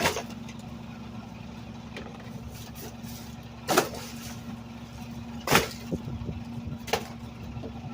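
Garbage truck running with a steady low drone, broken by several sharp bangs a second or two apart, the loudest about five and a half seconds in.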